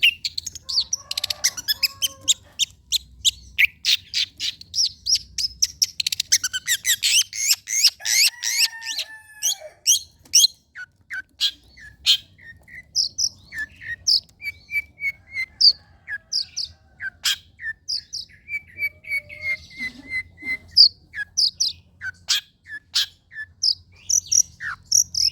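Long-tailed shrike singing: a dense, fast run of sharp high chirps and trills that later thins into more spaced single notes and short rapid phrases.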